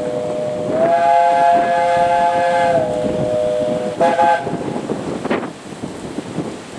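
Chime steam whistle of Bure Valley Railway locomotive No. 8 sounding a long multi-note blast that steps up in pitch about a second in, drops back near three seconds and stops about four seconds in, followed by one short toot; this is part of its run of whistle toots for the level crossing. Steam and running noise continue underneath.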